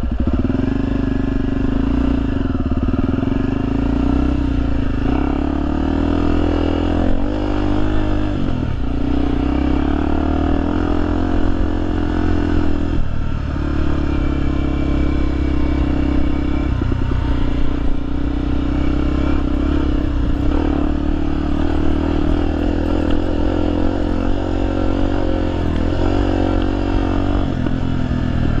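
Honda XR250 Tornado's single-cylinder four-stroke engine under way off-road, revs rising and falling again and again as the throttle is opened and closed, with brief drops in pitch through the ride.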